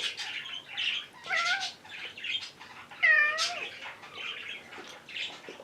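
A domestic cat meowing twice to be let outside, the second meow longer and louder.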